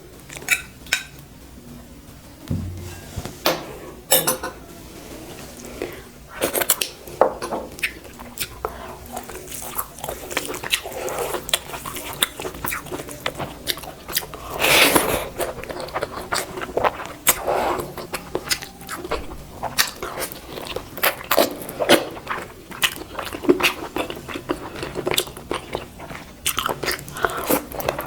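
Close-miked eating: a person biting and chewing food, with many short crunching and wet mouth clicks, and one louder, longer bite about halfway through.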